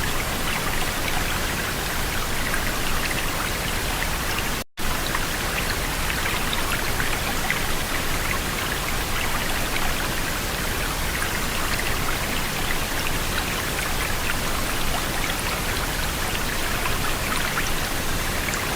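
Steady, dense patter of water, like rain, with crackling ticks, cutting out for an instant about four and a half seconds in.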